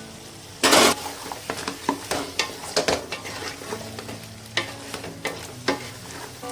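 A spoon stirring chicken curry in a pan with ghee just stirred in: repeated short scrapes against the pan, with a louder, longer scrape about a second in, over a steady sizzle.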